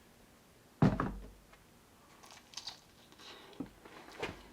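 A single solid knock about a second in, then scattered light clicks and taps of kitchen items being handled during meal preparation.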